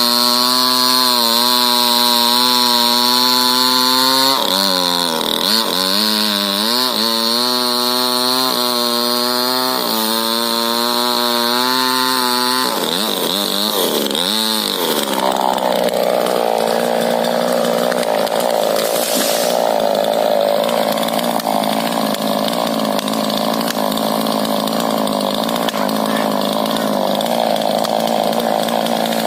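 Two-stroke chainsaw running at high revs while felling a rubber tree, its pitch dipping and recovering a few times in the first half. About halfway through the sound turns rougher and noisier as it carries on.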